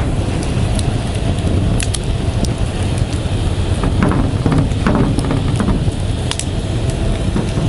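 Bonfire of dry leaves and twigs burning, with scattered sharp crackles and pops over a steady low rumble.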